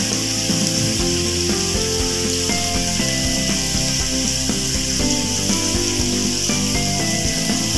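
Onions and ginger sizzling as they sauté in hot oil in a wok, a steady hiss, under background music.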